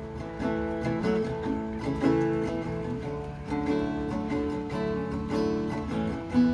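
Acoustic guitar played solo, chords picked and strummed with a new chord struck every second or so, without singing.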